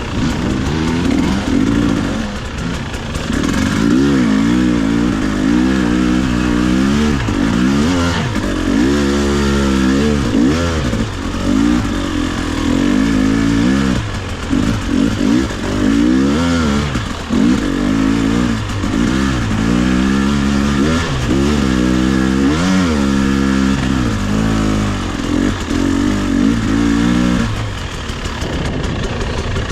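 Husqvarna TE300i two-stroke enduro bike engine being ridden, revving up and dropping back every second or two, then settling to a lower, steadier running near the end.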